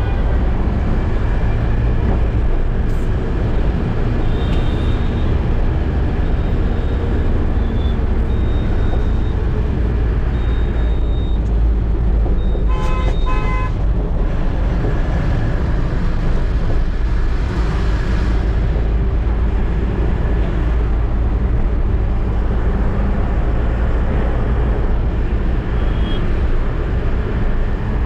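Eicher truck running on the road with a steady low engine and road rumble. About halfway through, a horn honks in a few short toots.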